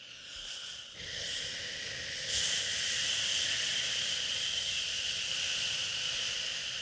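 Drawn-out human 'shhhh' shushing over a steady white-noise hiss. A fresh, louder shush starts a little over two seconds in and is held unbroken through the rest.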